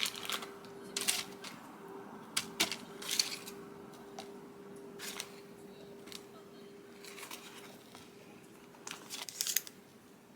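Kitchen utensils and ingredient packaging being handled for baking prep: scattered clicks, taps and rustles, over a faint steady hum that fades out near the end.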